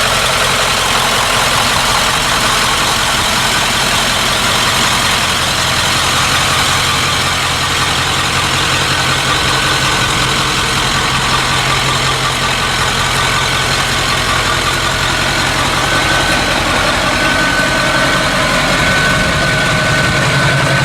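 Ford 7.3-litre Power Stroke turbo-diesel V8 idling steadily. A faint high whine joins in near the end.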